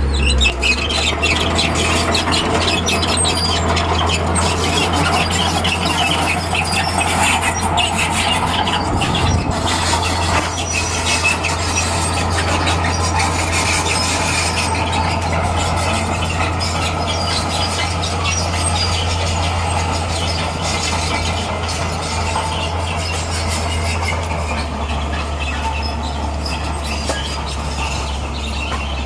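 Bulldozer's diesel engine running steadily under load, with the metallic clatter and screech of its steel crawler tracks. The engine eases slightly near the end.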